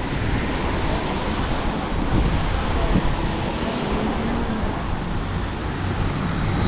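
Steady street traffic noise from passing motor vehicles, with wind on the microphone.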